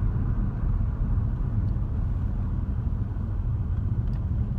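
Steady low rumble of a car heard from inside the cabin as it drives, with a window open.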